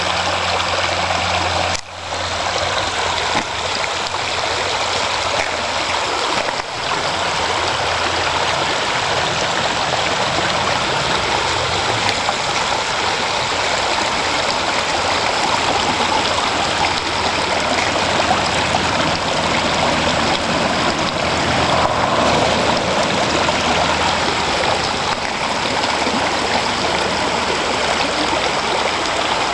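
Floodwater rushing down a driveway like a stream, a steady loud rush of running water.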